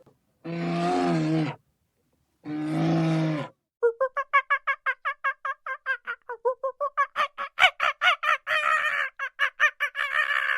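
Fowl calling: two long, drawn-out calls, then a fast run of short repeated calls, about five a second, with several birds overlapping near the end.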